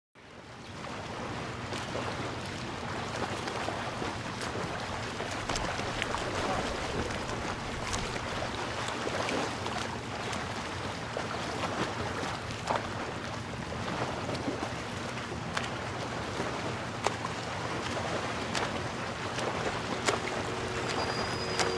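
Ocean surf with wind on the microphone: a steady wash of waves that fades in at the start. Near the end a few held music notes begin to come in.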